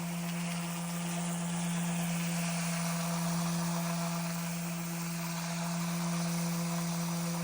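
Small electric power tool running steadily: an even motor hum with a hiss over it, without change.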